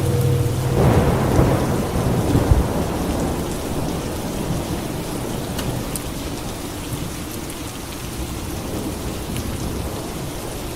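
Steady rain falling, with a clap of thunder about a second in that rumbles and fades away over the next few seconds.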